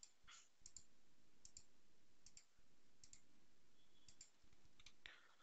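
Computer mouse clicking: a faint, irregular series of about eight single clicks as copies of a footing are pasted one by one in the drawing software.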